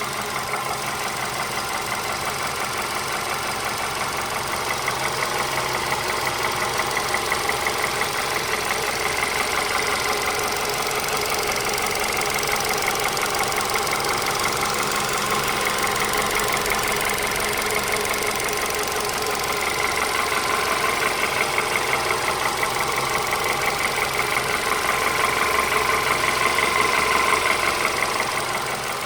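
Vehicle engine running with a fast, even ticking rhythm, swelling a little twice and dropping back near the end. The owner is asking whether this is an engine knock.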